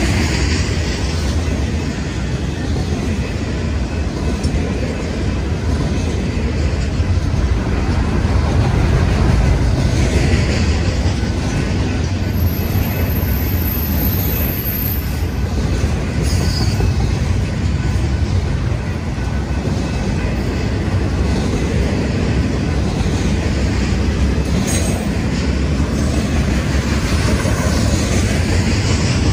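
A train on BNSF track rolling past, a steady rumble of wheels on rail that runs on without a break. A brief, very high-pitched squeal rises above it about halfway through.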